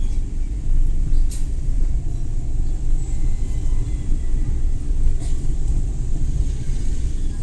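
Suzuki Every Wagon (DA64W) with its 660 cc three-cylinder engine driving, a steady low engine and road rumble. Two short clicks come about a second in and about five seconds in.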